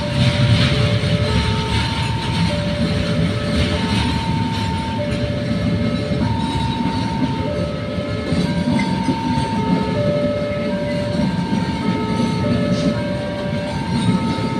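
Freight train of container and flat wagons rolling through a railroad level crossing, a steady low rumble of wheels on rails. Over it, the crossing's electronic alarm repeats a pattern of steady warning tones, each about a second long, alternating between a few pitches.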